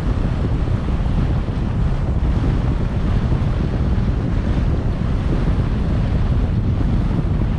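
Wind buffeting the microphone of a camera on a moving car: a steady, loud low rumble of rushing air with no break.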